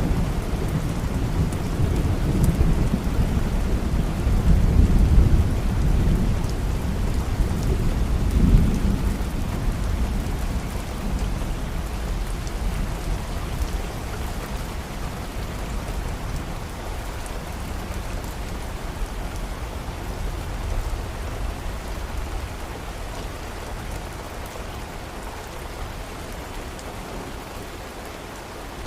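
Steady rain with a long, low rumble of thunder that swells in the first few seconds, peaks twice and then slowly fades away.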